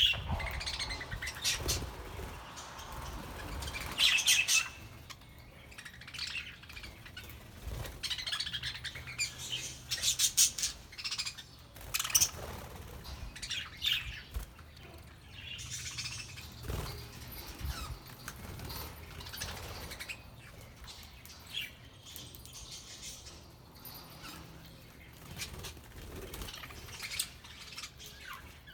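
A flock of budgerigars chirping and chattering in short, scattered calls, with brief bursts of wing flapping.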